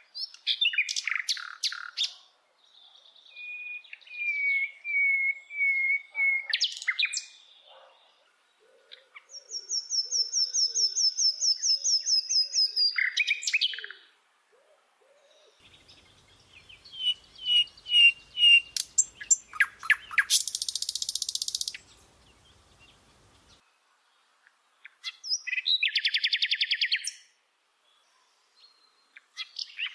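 A songbird singing a string of varied phrases with short pauses between them: runs of clear whistled notes, fast rapid-fire repeated notes, a harsh buzzy burst about two-thirds of the way through, and a fast trill near the end.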